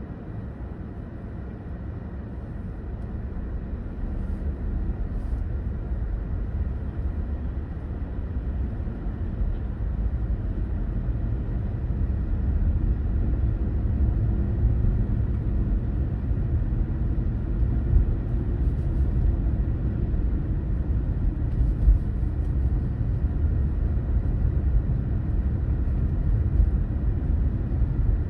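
Car driving: a steady low rumble of engine and tyres on the road, which builds over the first dozen seconds, as if the car is picking up speed, then holds steady.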